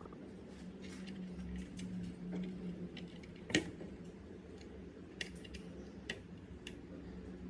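Scattered light clicks and taps of small hard parts being handled, with one sharper click about three and a half seconds in, over a steady low hum.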